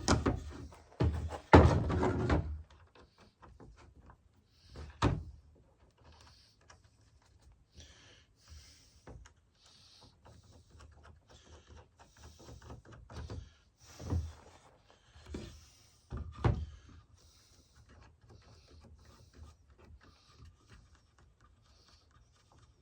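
Knocks and clunks of a Kreg pocket-hole jig and a scrap board being handled and set in place: a cluster of loud clunks in the first couple of seconds, then a few single knocks spread out with faint rustling between.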